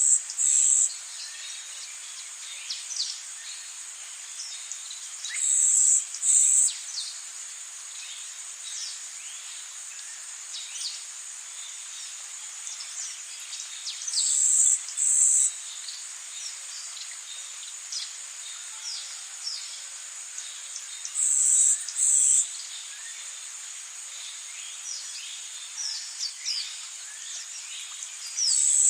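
Rainforest ambience: a steady high-pitched insect chorus. About every seven to eight seconds a loud double buzz stands out, and many short, quick, falling bird chirps are scattered throughout.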